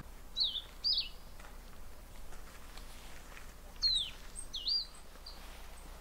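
Bird calls: two pairs of short, sharp whistled notes, each sweeping down and hooking back up, the first pair about half a second in and the second near four seconds, over a faint steady background.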